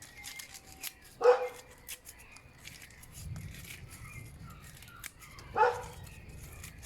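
A dog barks twice, once about a second in and again near the end. Between the barks, dry leaves crackle faintly as they are handled.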